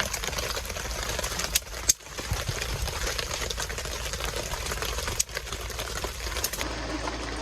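Campfire crackling: a steady hiss with scattered sharp pops.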